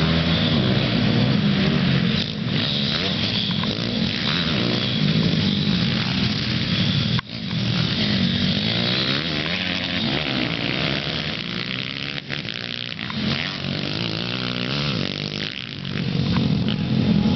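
Pit bike's small single-cylinder engine revving up and down over and over as it is ridden round a dirt track, with a brief sudden drop in sound about seven seconds in.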